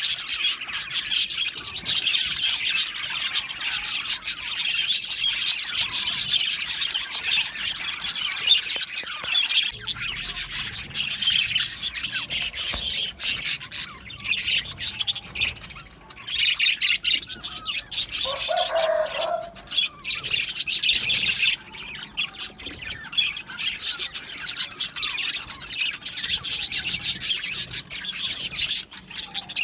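A flock of budgerigars chirping and warbling busily all at once, as in a budgie aviary colony. One lower-pitched call stands out briefly about two-thirds of the way through.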